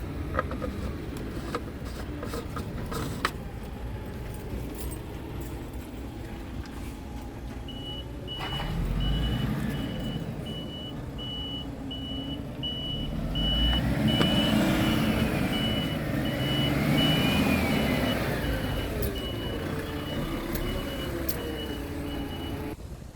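Scania R tractor unit running, with its reversing alarm beeping evenly at a little over once a second from about a third of the way in. The engine note rises and falls for a few seconds in the middle, and a few sharp clicks come in the first seconds.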